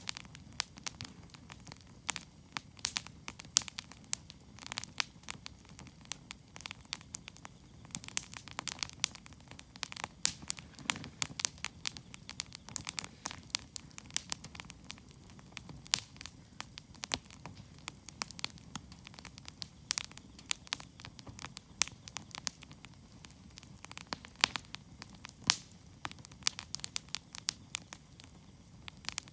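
Wood campfire crackling and popping: irregular sharp snaps, several a second, over a low steady rumble.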